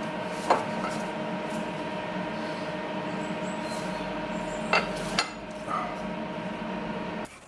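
Myford S7 metal lathe running with a steady hum, broken by a few sharp metallic clinks; the running sound cuts off suddenly near the end.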